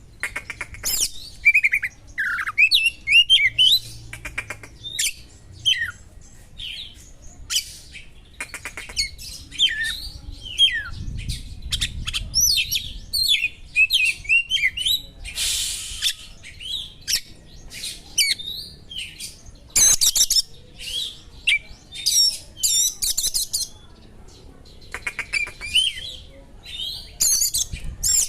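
Oriental magpie-robin (kacer) singing a fast, varied song of short whistles, chirps and trills, with small birds' calls worked in as mimicry.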